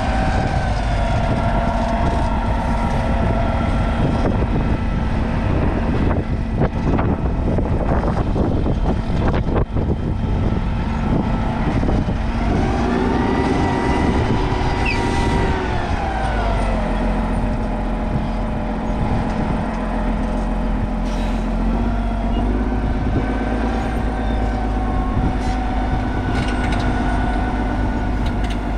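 Heavy diesel farm machinery engine running under load, revving up about twelve seconds in and settling back down a few seconds later, with some clanking knocks in the first half.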